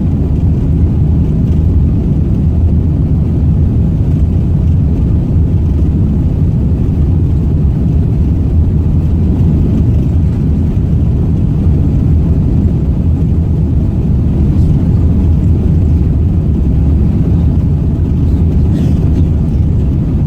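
Steady rumble inside an Airbus A380-800 cabin, the engines and airflow heard as a constant low roar without change.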